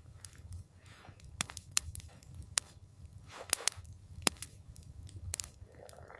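Campfire crackling: irregular sharp pops and snaps from the burning wood, about one or two a second, over a steady low rumble.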